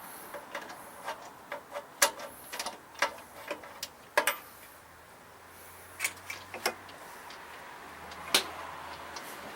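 Ratchet wrench clicking in short irregular runs while it backs out a snowblower engine's spark plug with a 13/16 socket, with a few louder clicks further apart.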